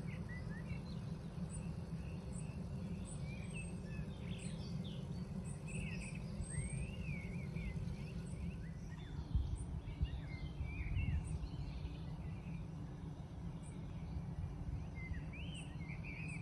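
Songbirds chirping and warbling, with many short calls throughout, over a steady low rumble.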